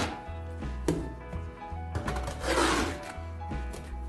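Background music, over the scrape of a notched steel trowel spreading tile adhesive, with a sharp click about a second in and a longer scraping stroke past the middle.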